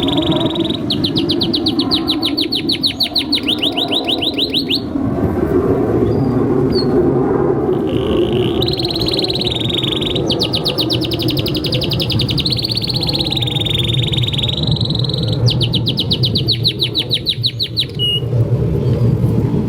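Domestic canary singing in long phrases of fast trills of repeated notes, broken by a pause of a few seconds in the middle, over a steady low background rumble.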